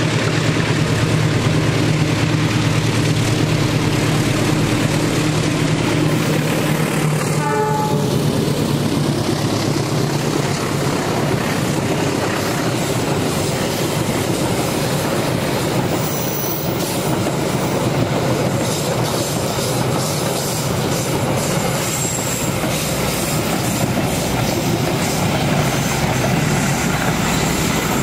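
Diesel-electric locomotive running as it hauls a passenger train slowly past, its engine hum giving way after about ten seconds to the coaches' wheels clattering and rumbling over the track, with brief faint wheel squeal on the curve.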